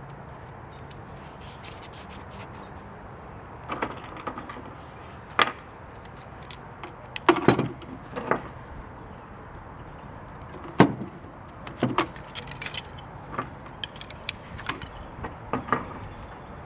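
Scattered metallic clinks and knocks of hardware being handled while a garage door opener's door arm is assembled, over a faint steady low hum.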